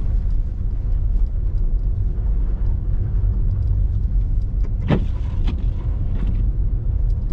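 Steady low rumble of a car being driven, heard from inside the cabin, with one sharp click about five seconds in.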